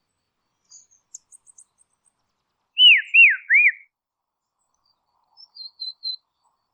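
Dusky robin calling: three loud, quick whistled notes, each swooping down and back up in pitch, about three seconds in. Faint high chips come about a second in, and a few soft higher notes near the end.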